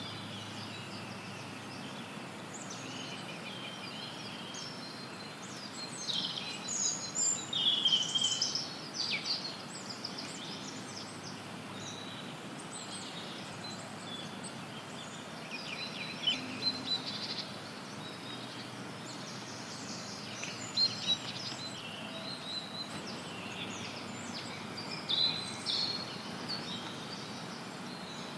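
Forest birds chirping and singing over a steady hiss of white noise. The birdsong comes in scattered bursts of short high chirps and trills, busiest between about six and ten seconds in.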